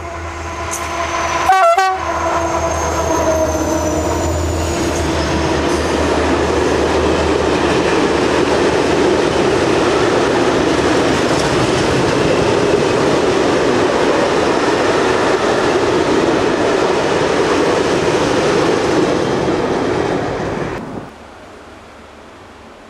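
SNCF BB 67400 diesel locomotive sounding a short horn blast as it comes up, its engine note dropping in pitch as it passes. Then the long, steady noise of a freight train of coil wagons rolling past, which cuts off abruptly near the end.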